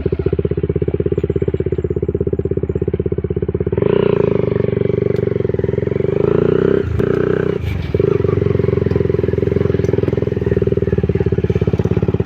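Honda CBR150R's single-cylinder engine running with a steady pulsing beat, getting louder about four seconds in and dipping briefly twice around seven and eight seconds.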